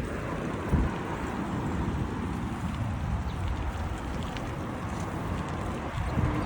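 Wind buffeting the microphone during a bicycle ride: a steady, uneven low rumble, with a thump about a second in and another near the end.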